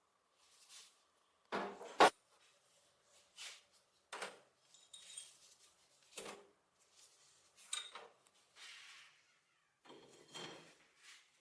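Metal parts of a cast iron corn sheller clinking and scraping as they are handled and worked on, in separate short clatters, with one sharp loud clink about two seconds in.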